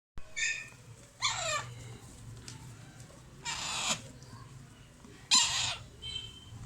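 Alexandrine parakeet chicks giving harsh, raspy food-begging calls: four short screeches about a second or two apart, a couple with a falling pitch. A low steady hum runs underneath.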